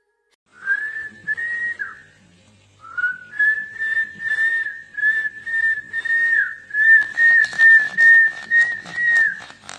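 A high whistle held at nearly one pitch, broken into a run of short pulses with a brief pause about two seconds in, over faint clicking.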